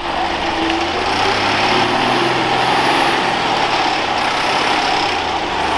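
Unimog off-road truck's diesel engine running steadily under way. The sound starts abruptly.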